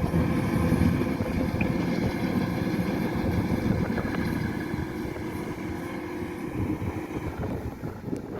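Kubota DC-105X combine harvester running steadily with a low, even drone that fades gradually over the last few seconds.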